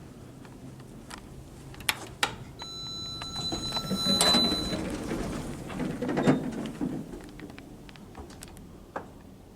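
Modernised old Otis lift in operation: two sharp clicks, then a steady electronic tone held for about two seconds while the doors and machinery make a rising, sliding mechanical noise that peaks in the middle and dies down, with one more click near the end.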